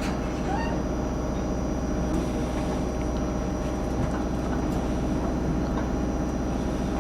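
Steady drone of the excursion train's diesel engine running at a constant speed, with a few faint clicks.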